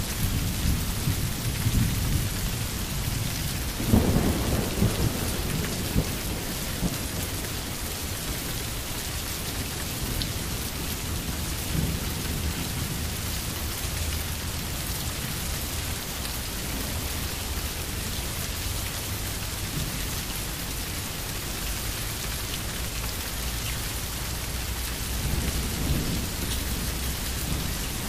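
Steady rain falling, with thunder rolling under it: a low rumble that swells sharply about four seconds in and dies away, then a second, softer rumble near the end.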